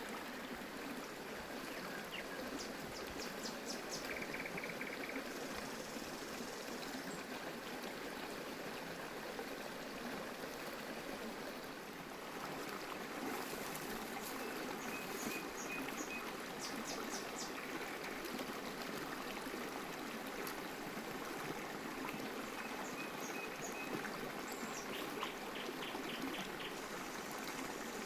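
Water running steadily, a stream or trickle, with short high chirps recurring now and then over it.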